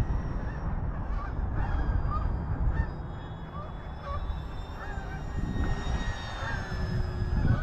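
Geese honking repeatedly over gusty wind on the microphone, with the faint steady whine of the RC Cessna 182's electric motor in the background.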